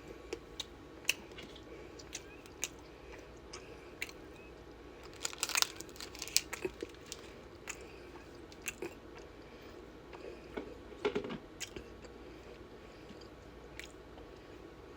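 Someone biting into and chewing a Turtles chocolate, cherry-caramel and pecan candy, giving scattered crunchy clicks. The crunching is busiest from about five to six and a half seconds in, and again around eleven seconds.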